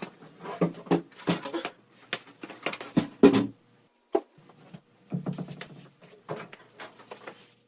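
Irregular light knocks and clicks of wooden shims and an interior door slab being handled and set into the door jamb.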